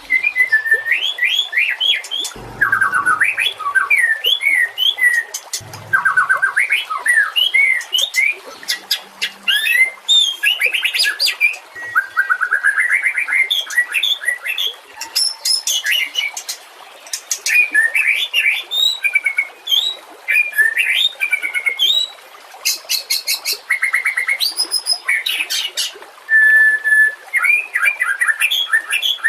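White-rumped shama singing a continuous, varied song: quick whistled phrases, rapid trills, rising and falling sweeps and sharp high chattering notes, one phrase after another with short pauses between.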